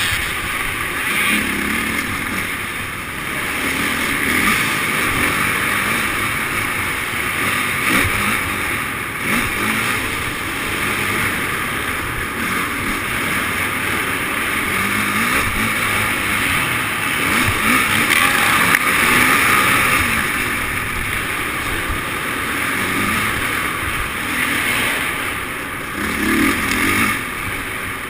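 Motocross dirt bike engines running and revving, the pitch rising and falling continuously.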